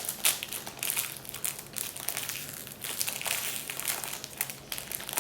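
Easy Mac macaroni packet crinkling and rustling as it is torn open and handled by hand, an irregular run of crackles.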